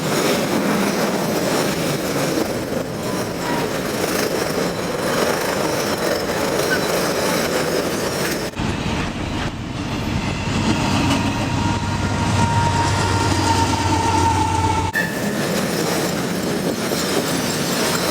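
Long freight train rolling past: a steady rumble with the rapid clatter of wheels over rail joints. About halfway through, the sound cuts abruptly to a low steady drone with a faint high whine for about six seconds, then the rolling clatter comes back.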